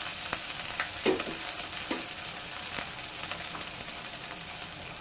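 Chopped garlic and ginger sizzling in hot oil in a pot, frying off their raw smell, with a few sharp knocks about a third of a second, one second and two seconds in.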